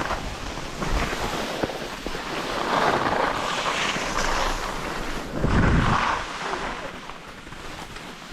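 Wind rushing over the microphone, swelling twice, the second time with a low rumble.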